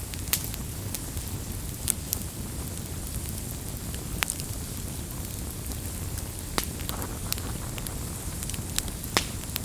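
Campfire burning with a steady low rumble and scattered sharp pops and crackles from the wood, a handful over several seconds.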